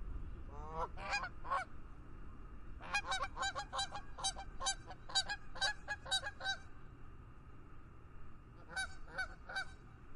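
Geese honking: a few calls early, then a fast run of about ten honks in the middle and three more near the end, over steady low background noise.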